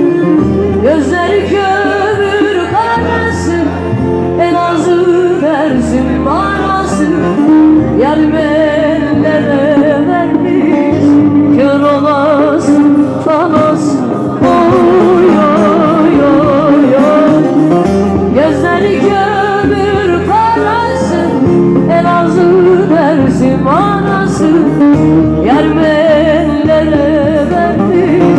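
A song: a solo voice sings a wavering, ornamented melody over instrumental backing with a bass line that changes notes every few seconds.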